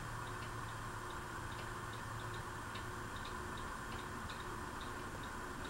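Fanimation Elevation ceiling fan running on medium speed: a steady low hum with light ticking, about three ticks a second.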